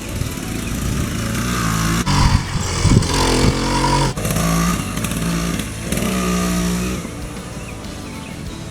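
The 80cc two-stroke engine of a motorized bicycle with an expansion-chamber exhaust, revving up and down in surges, loudest in the middle, with another rising rev just before it eases off near the end.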